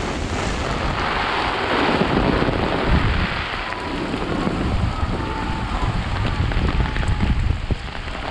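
Heavy rain falling steadily onto an umbrella and wet pavement, with wind rumbling on the microphone.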